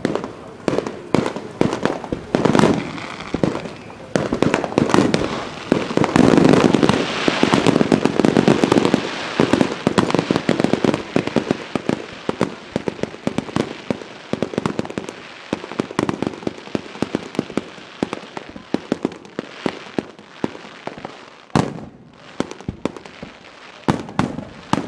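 Fireworks display going off close by: a continuous run of bursting shells and crackling, densest about a quarter of the way in, thinning to scattered sharp cracks and bangs later on.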